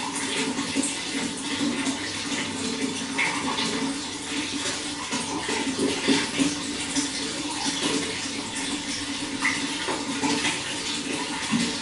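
Running water flowing steadily, with a constant stream of small splashes and gurgles.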